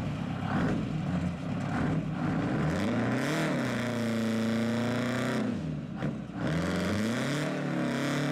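Rat rod car engine revving: the pitch climbs and holds high for a couple of seconds, falls away, then revs up again and holds.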